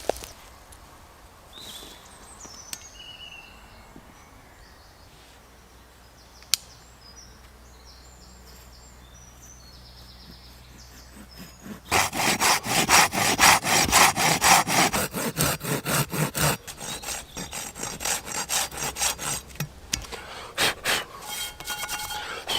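Hand saw cutting through wood in rapid back-and-forth strokes. It starts about halfway through, is loudest for the first few seconds, then carries on in lighter strokes until near the end.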